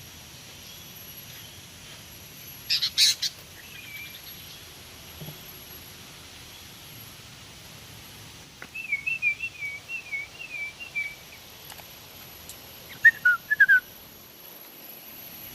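Sooty-headed bulbul (kutilang) calling: a few sharp chirps about three seconds in, a run of short repeated whistled notes about nine to eleven seconds in, and a quick falling call near the end.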